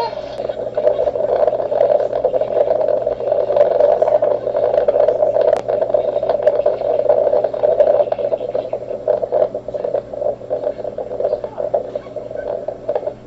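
A flock of flamingos calling together: a dense, continuous chorus of many overlapping short calls that thins slightly near the end.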